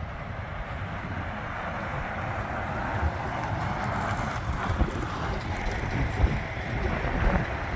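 A lorry driving past, its engine and tyre noise growing louder over the first few seconds.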